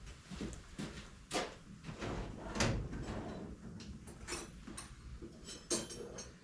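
Scattered light knocks and clinks of metal hand tools being handled and set down.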